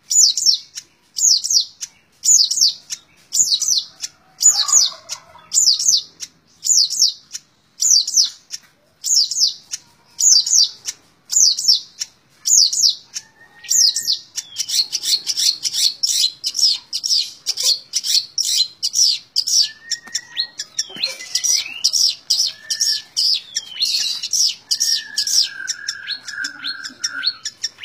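Long-tailed shrike (cendet) singing: harsh, high call notes repeated about one and a half times a second, then from about halfway a fast, nearly unbroken rapid-fire run of notes, the 'ngebren' burst style, with a few lower whistled notes mixed in.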